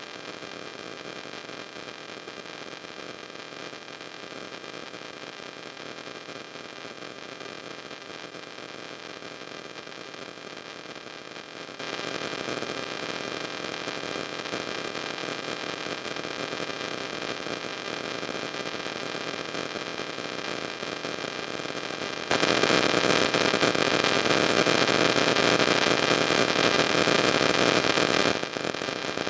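Steady hiss with a few faint fixed tones, jumping louder in sudden steps about twelve seconds in and again about twenty-two seconds in, then dropping back shortly before the end.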